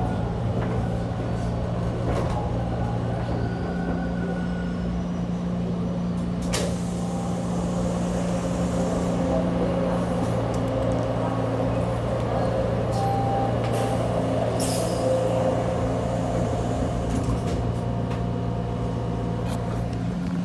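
TTC T1 subway train standing in a station: its equipment hums steadily in a few low tones under a noisy background, and there are two sharp clacks, one about a third of the way in and one a little after the middle.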